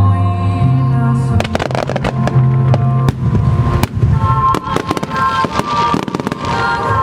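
Fireworks bursting in rapid, irregular bangs over music from the show's loudspeakers.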